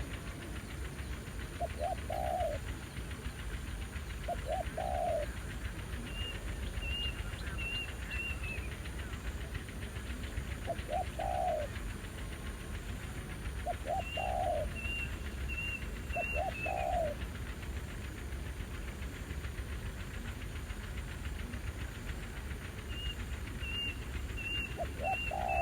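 Spotted doves cooing, short phrases of a couple of quick notes and a longer one, repeated every few seconds. Three times a run of four or five short high piping notes from another bird comes in between.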